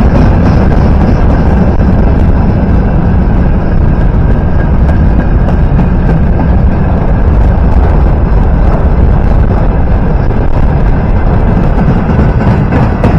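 Train passing close by: a loud, steady rumble of wheels on rails, with rail-joint clicks coming back near the end.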